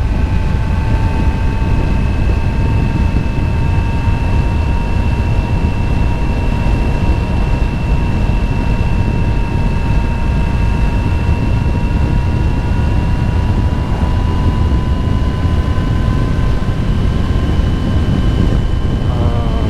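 Motorcycle riding along at a steady speed: a loud, even rumble of wind and engine, with a thin whine that rises slowly in pitch.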